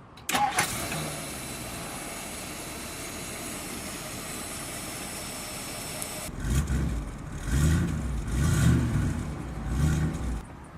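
1961 Ford Thunderbird's 390 cubic-inch V8 catching just after the start, idling steadily, then revved in about four blips during the second half.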